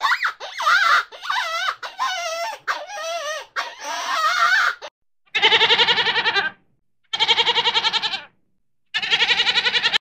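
A goat bleating three times, each bleat a long quavering call about a second long with short silences between. The bleats are preceded by about five seconds of rapid, high, wavering squeals from a small animal.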